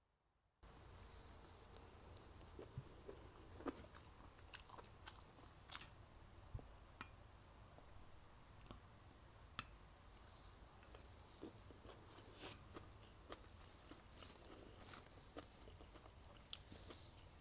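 Close-miked chewing and crunching of a mouthful of mala xiang guo (spicy stir-fried pork and vegetables), with many small wet clicks and crackles. One sharp click about halfway through is the loudest sound.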